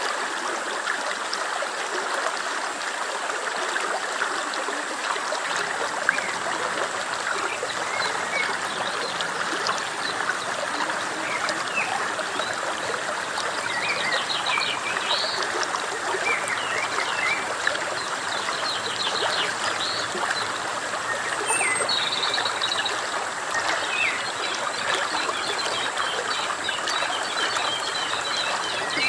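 A stream running steadily, with small birds chirping and trilling in short scattered calls over it.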